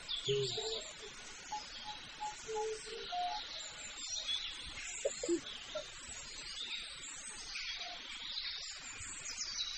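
Small birds chirping and twittering in the background, many short calls overlapping throughout.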